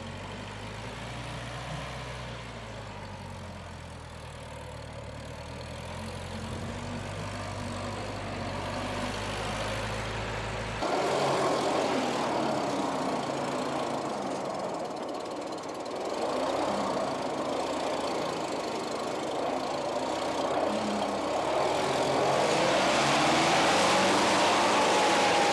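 Bobcat 610 skid-steer loader's engine running. After about ten seconds the sound changes abruptly from a steady low hum to a louder engine note whose pitch rises and falls as it is revved, climbing near the end.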